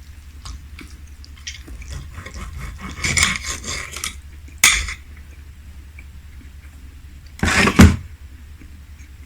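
Cutlery clinking and scraping on a plate: scattered light clicks, a quick rattling run about three seconds in, a sharp clink just before five seconds, and a louder clatter about seven and a half seconds in.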